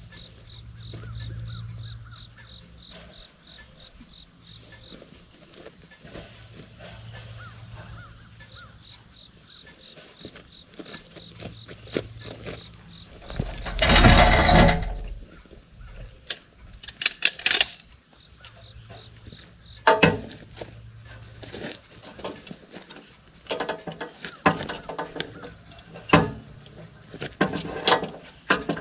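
Insects chirping steadily in the background, with a loud, noisy burst lasting about a second and a half about halfway through, followed by scattered clicks and knocks.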